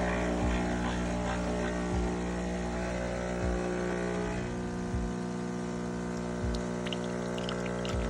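Philips 3200 Series automatic espresso machine's pump running with a steady hum and a low throb about every second and a half.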